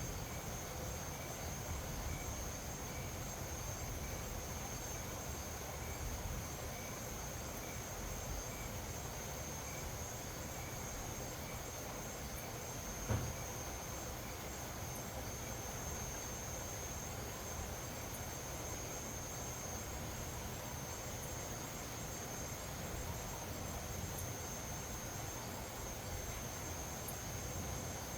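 Insects keeping up a steady high-pitched trill over a low rumble of wind, with one sharp knock about halfway through.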